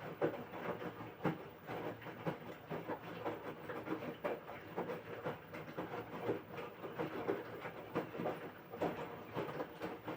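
LG 6.5 kg washing machine running its quick wash program: the load and water churning in the drum, a continuous rumble with many irregular knocks and clatters.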